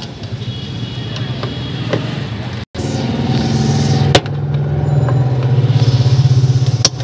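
Electric angle grinder running with a steady hum while cutting metal: a broken nut on a washing-machine gearbox being cut away. The sound drops out for an instant about a third of the way in, then returns louder.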